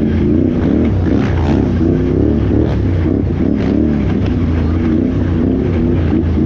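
Can-Am Renegade XXC 1000R ATV's V-twin engine revving up and down repeatedly under throttle on a rough off-road course.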